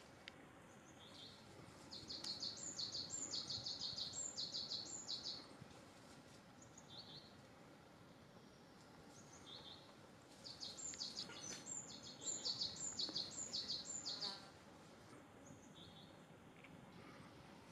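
A small bird chirping in two rapid series of short high notes, each lasting three to four seconds, with a few single chirps between them over faint outdoor background.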